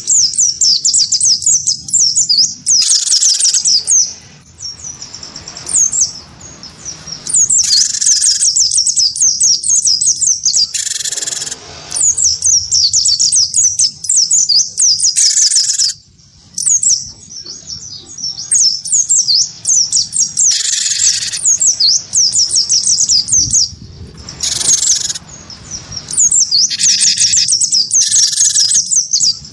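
A cinereous tit (gelatik batu) and an oriental white-eye (pleci) calling against each other. There is near-continuous fast, high twittering, broken every few seconds by short harsh, buzzy calls.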